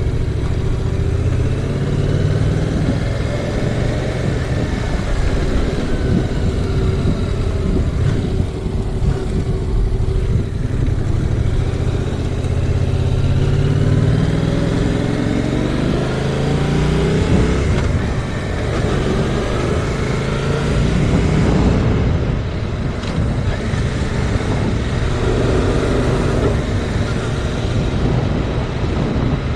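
Yamaha MT-07's parallel-twin engine running under way, its note rising several times as it accelerates and dropping back between gears. Heavy wind buffeting on the camera microphone runs underneath throughout.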